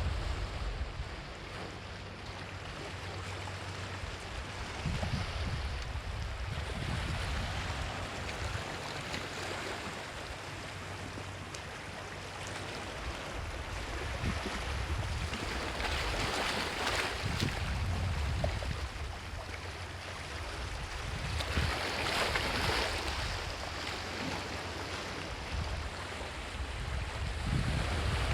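Sea waves washing onto the shore, with two louder surges, one about halfway through and one about three quarters through, over gusty wind rumble on the microphone.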